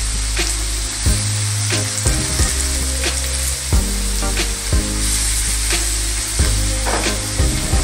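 Chopped beans, carrots, peas, cashews and raisins sizzling steadily in hot oil and ghee in a kadai. Short sharp clicks recur about once a second over the hiss.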